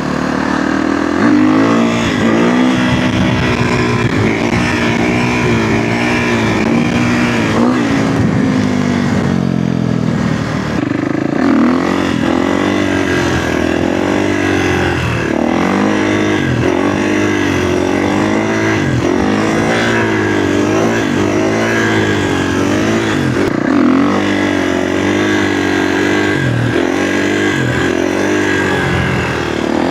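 Kawasaki KX450F dirt bike's single-cylinder four-stroke engine being ridden hard, its pitch climbing and dropping over and over, heard from a mic inside the rider's helmet.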